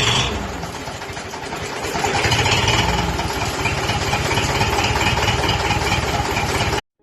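UTB U650 M tractor's diesel engine running, easing off about half a second in and picking up again around two seconds in. The sound cuts off abruptly near the end.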